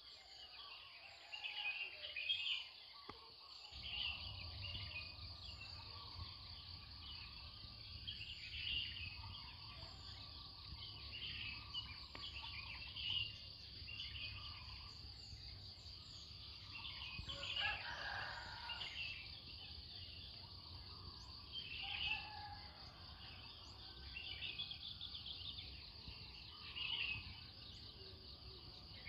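Morning chorus of birds, with many short chirps and high falling whistles repeating throughout. A low steady hum comes in about four seconds in.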